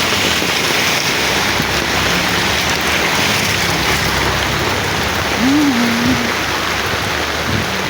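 Steady rain falling, an even hiss of drops that holds at the same loudness throughout.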